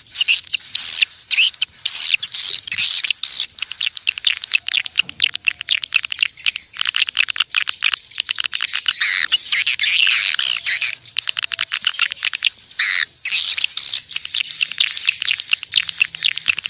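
Swiftlets calling: a dense, unbroken run of quick high chirps and twitters. This is the swiftlet call sound used to lure the birds to a nesting house.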